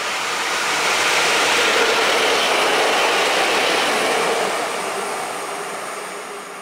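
Two EP07 electric locomotives with an SM42 diesel shunter coupled between them passing as a light-engine train: a rushing wheel-and-rail noise that swells to its loudest about two seconds in, then fades as the locomotives move away.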